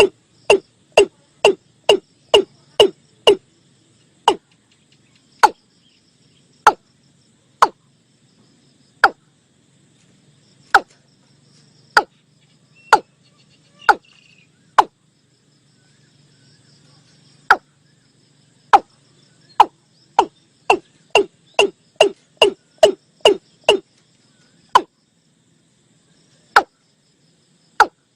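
Watercock calling, as used for a lure recording: a long series of short, deep 'kok' notes, each dropping in pitch. The notes come about two a second, spread out to one every second or two through the middle, then quicken again, with faint crickets beneath.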